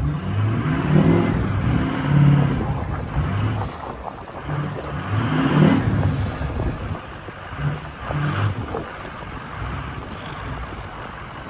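Ford 6.0 Powerstroke V8 turbo-diesel in a 1979 F-250 revved in several bursts, with a high whistle rising and falling with each rev. It settles to a steadier, quieter run in the second half.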